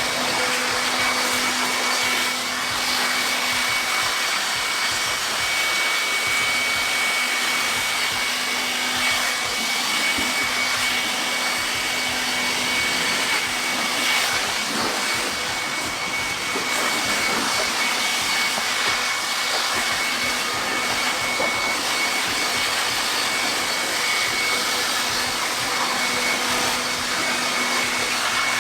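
Air blower running steadily, blowing water off an engine bay to dry it: a steady rushing hiss with a high motor whine.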